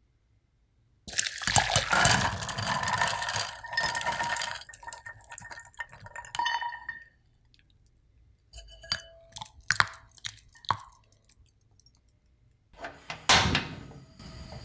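Liquid pouring and splashing into a vessel for about six seconds, then a handful of light clinks and taps of kitchenware, and one louder knock near the end.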